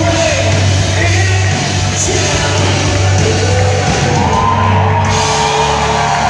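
Live band playing a worship song loud, with a singer holding long sung notes over a steady bass.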